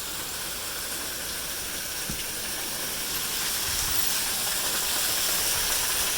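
Heavy rain falling, a steady even hiss that grows slightly louder over the few seconds.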